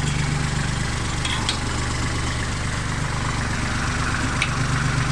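Kubota tractor's diesel engine idling steadily, with a couple of faint clicks.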